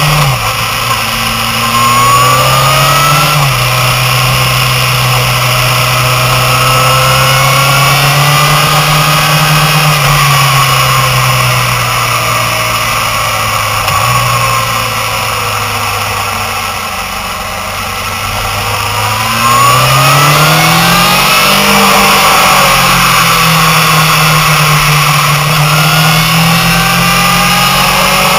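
Motorcycle engine heard onboard at track speed, revving up through the gears with sudden pitch drops at the upshifts, easing off for a few seconds past the middle, then accelerating hard again, with wind rushing over the microphone.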